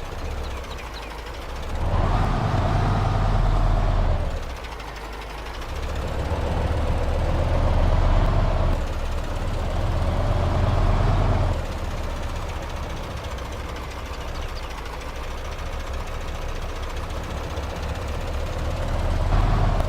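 Radio-controlled heavy-machine model running, with a steady low engine rumble and a whine over it. The sound swells under load three times: about two seconds in, for several seconds from about six seconds in, and again near the end.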